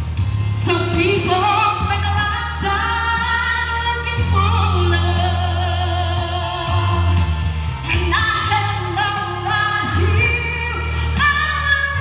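A woman singing a slow melody with long held, wavering notes over music accompaniment with a steady bass.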